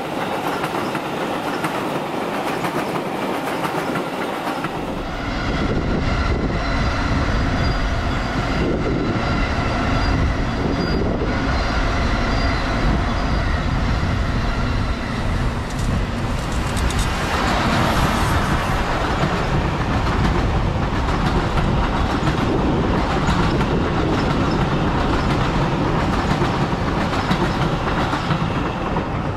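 Seibu 40000 series EMU cars being towed past unpowered in a delivery transfer, steel wheels rolling and clacking over rail joints. The rolling noise grows louder and deeper about five seconds in and stays steady after that.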